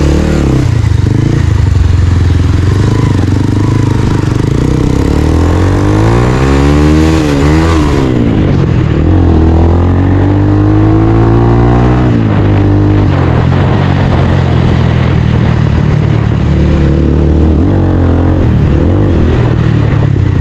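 Bajaj Pulsar single-cylinder motorcycle engine running through a newly fitted aftermarket exhaust silencer. It idles, then is revved up and let fall back twice in the middle.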